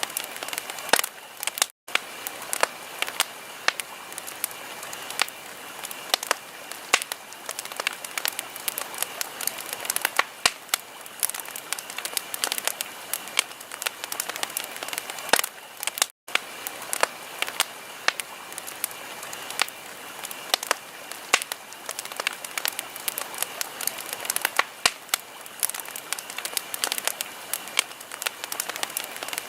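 Wood fire crackling in a fireplace: a steady hiss with dense, irregular sharp pops. The sound cuts out for an instant twice, once about two seconds in and again just past the middle.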